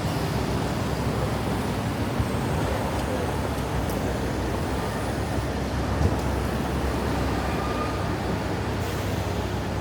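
Street traffic: a steady rumble of passing road vehicles with a short knock about six seconds in.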